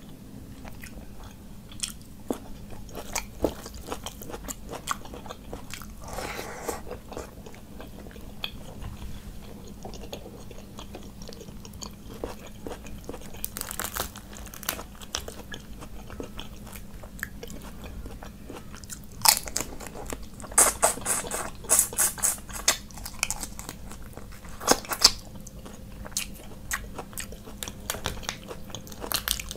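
Close-miked chewing and biting of food, with sharp crunches all through and a run of louder crunchy bites around twenty seconds in.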